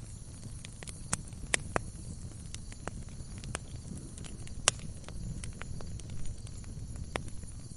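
Wood logs burning in a fireplace, crackling: irregular sharp pops and snaps over a steady low rumble of the flames.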